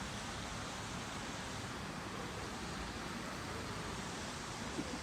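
Steady outdoor ambient noise: an even wash of sound with no distinct events standing out.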